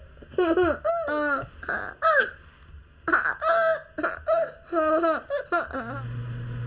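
A young child laughing, in repeated high-pitched giggles. A low steady hum starts near the end.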